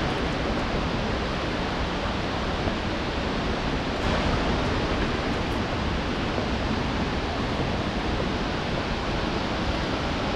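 Shifen Waterfall's falling water: a steady, even rush of noise with no breaks.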